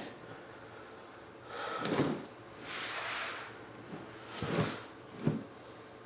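A few knocks and thuds, as of household handling, with a breathy rush of noise about three seconds in; the sharpest knock comes a little after five seconds.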